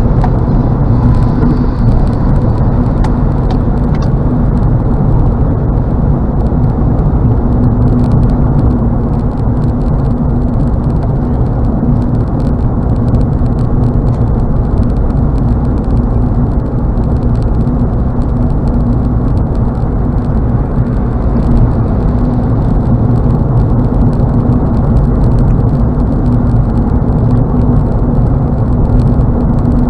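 Steady road and engine drone inside a car's cabin while it cruises at highway speed: a low rumble of tyres and engine with a faint steady hum.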